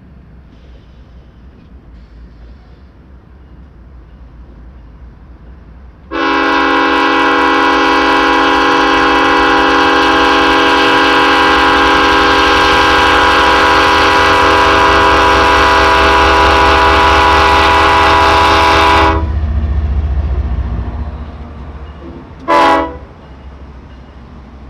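BNSF diesel freight locomotive's multi-chime air horn sounding one long steady blast of about thirteen seconds over the low rumble of the engines. The rumble swells and then fades as the locomotives pass, and near the end the horn gives one short toot.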